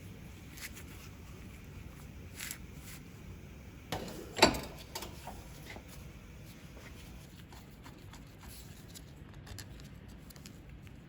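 Light clicks and taps, with one sharp knock about four and a half seconds in.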